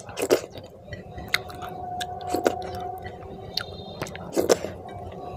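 Close-miked wet chewing and lip smacking of a hand-fed mouthful of rice and curry gravy, with loud smacks about a third of a second in and again near the end.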